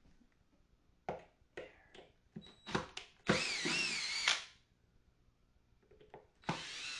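A few clicks and knocks of handling, then a cordless drill or power screwdriver runs for about a second with its motor pitch wavering, backing out screws from the amp chassis. It starts again near the end.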